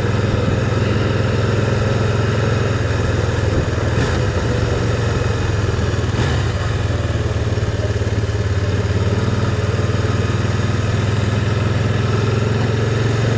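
Motorcycle engine running steadily while riding along at a constant pace, with a couple of faint clicks partway through.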